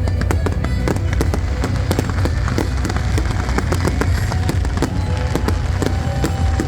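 Fireworks going off in quick succession: many sharp pops and cracks, several a second, over a steady low rumble.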